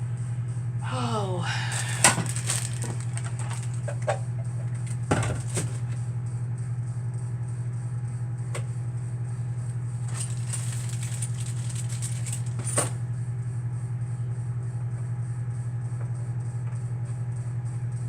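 Handling noise: scattered sharp clicks and knocks, with a thump about five seconds in and a cluster of clicks between about ten and thirteen seconds, over a steady low hum. A short falling squeak comes about a second in.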